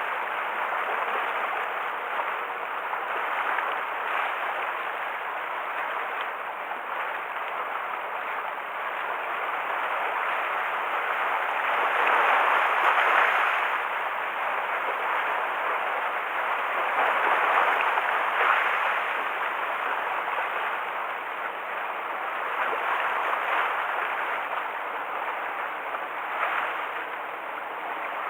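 Rough, typhoon-stirred sea waves washing and splashing against the shore, a steady rush that swells and eases every few seconds.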